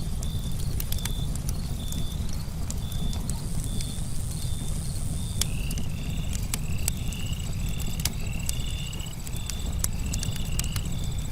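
Wood campfire crackling with frequent sharp pops over a low steady rumble of the flames, with night insects such as crickets chirping: a short high note repeating about every two-thirds of a second. From about halfway a second caller adds a run of short rising chirps, and a faint fast high trill runs on beneath.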